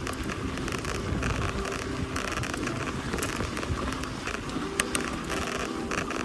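Mountain bike rolling along a gravel fire track: steady tyre noise and rattle with wind on the microphone, and a couple of sharp clicks about five seconds in.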